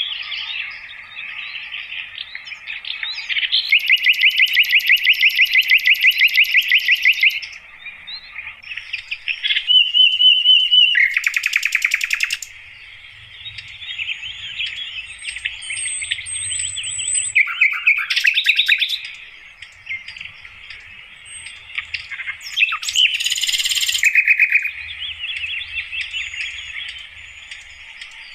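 Sikatan londo (a flycatcher) singing: varied chirps and phrases, with a long, fast, even trill lasting about three and a half seconds starting about four seconds in.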